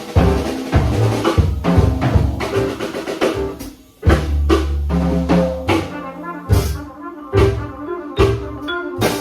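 Jazz quintet of trumpet, vibraphone, piano, drum kit and bass playing a swing tune, with the drums prominent. About four seconds in the band drops out for a moment, then comes back in on a strong accented hit.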